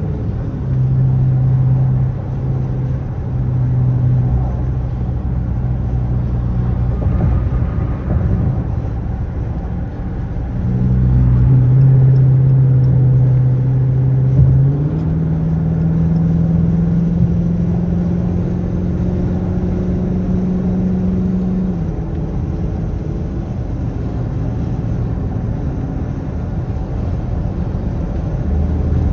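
Straight-piped Dodge Charger R/T V8 exhaust droning while cruising at steady engine speeds. The pitch steps up about halfway through and eases back down several seconds later.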